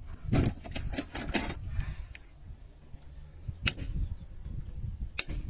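Steel hand tools striking granite: sharp, ringing metallic clinks, several in quick succession in the first second and a half, then single strikes at about three and a half and five seconds in.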